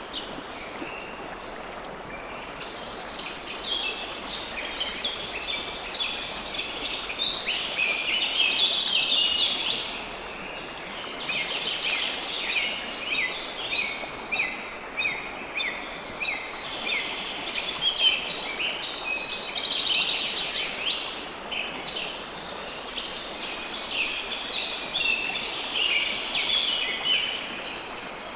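Songbirds singing long phrases of quick, high, falling notes, several seconds each with short gaps between, over a steady hiss of running water.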